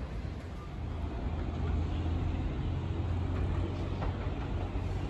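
Steady low rumble of an electric train at the station, louder from about a second and a half in.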